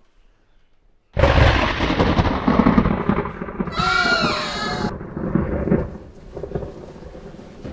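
A sudden, very loud thunderclap from a lightning strike about a second in, rumbling on and fading over several seconds. A brief high-pitched cry rises over the rumble about halfway through.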